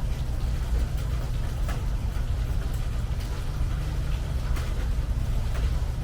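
Rain on a metal porch roof: a steady low rumble with scattered sharp ticks of single drops.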